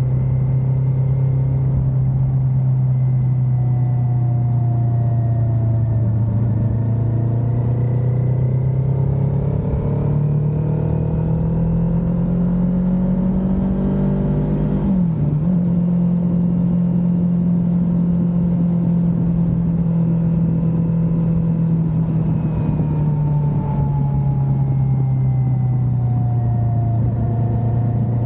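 Kawasaki Ninja 400's parallel-twin engine running at a steady cruise, with low wind rush. The engine note climbs from about a third of the way in, dips sharply for a moment about halfway, holds a little lower, then falls back near the end.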